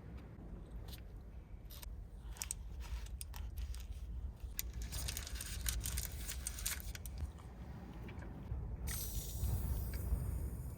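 Rustling and crinkling handling noises with scattered sharp clicks, growing busier about halfway through and again near the end, over a steady low rumble.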